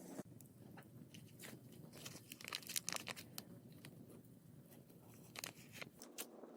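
Faint, irregular crackling and popping of a wood fire, with a short flurry of pops about halfway through and a few more near the end.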